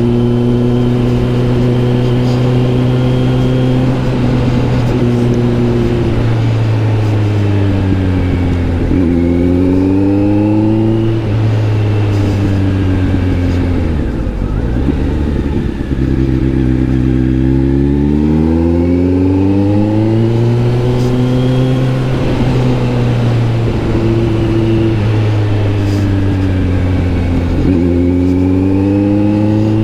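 Kawasaki Z900 SE inline-four engine running through an SC Project S1 aftermarket exhaust while riding. The revs hold steady, dip and pick up again about eight seconds in, then fall off further from about fourteen seconds and climb back up before settling.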